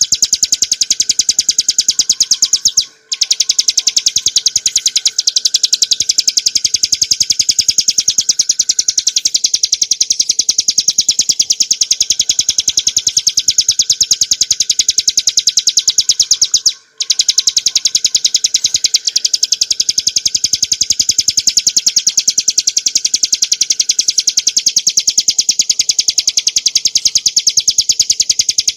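Ciblek gunung, a small prinia, singing a fast rattling run of high, rapidly repeated notes, broken by two brief pauses about 3 s and 17 s in.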